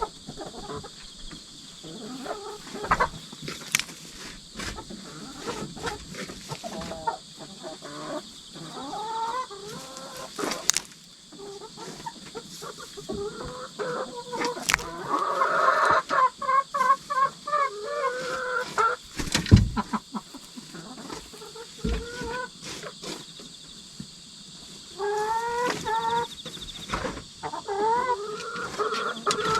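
Hens clucking, in runs of short repeated calls that come thickest around the middle and again near the end, with scattered sharp knocks and scratches in the coop. Insects trill steadily behind them.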